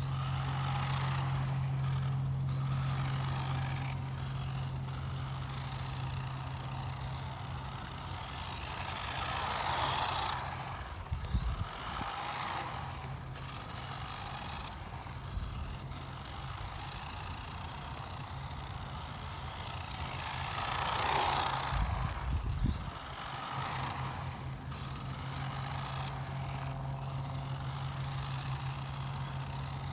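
1/14-scale radio-controlled stadium super truck running an autocross course, its motor and tyre noise swelling as it passes close, most strongly about ten and twenty-one seconds in. A few low thuds follow each close pass, and a steady low hum sits underneath throughout.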